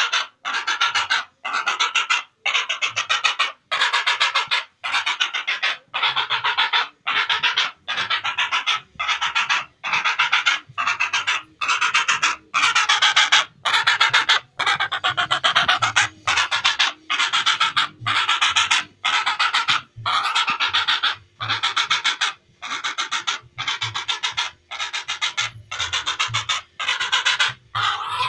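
Heron (cangak) calling over and over: harsh, rasping calls, each a fast rattle, repeating about one and a half times a second with short breaks between them.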